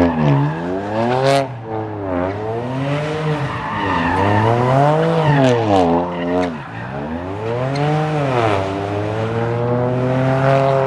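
A car engine revving up and falling back over and over, with tyres squealing as the car spins its wheels on the pavement.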